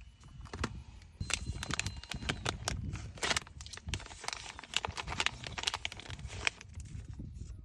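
Plastic packaging and items being handled: irregular crinkling and rustling with many small taps and clicks, as products are unpacked and set in place.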